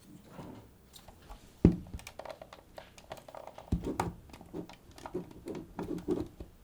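Small clicks and taps of a Sony HVR-DR60 recorder's casing and parts being handled during disassembly, with two sharper knocks, one under two seconds in and one near four seconds.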